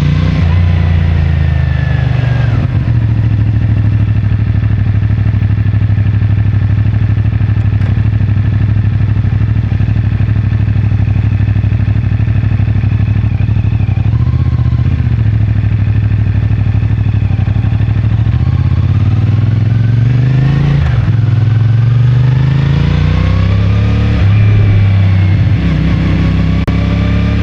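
CFMoto 450MT motorcycle's parallel-twin engine, rising in revs and shifting gear at the start, holding steady revs through the middle, then revving up and changing gear again twice near the end.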